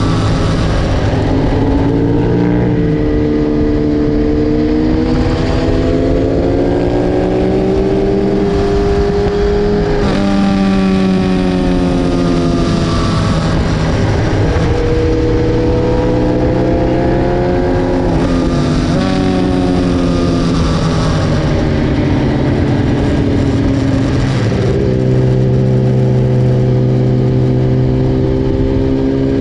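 BMW S1000RR inline-four engine at racing revs, heard onboard: the pitch climbs under acceleration, steps at gear changes and drops back sharply several times as the bike brakes and downshifts.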